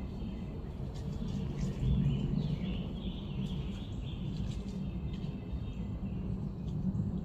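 Small birds chirping over a steady low outdoor rumble, the chirps busiest between about one and a half and three and a half seconds in.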